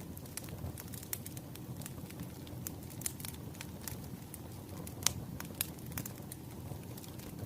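Wood fire crackling: irregular pops and snaps over a low steady rumble, with one sharper pop about five seconds in.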